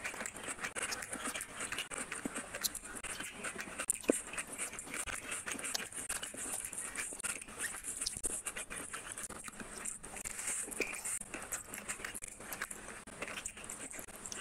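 Close-miked wet chewing and lip-smacking of a person eating curry and rice by hand, a continuous stream of small smacks and clicks, with the squelch of fingers mixing saucy rice.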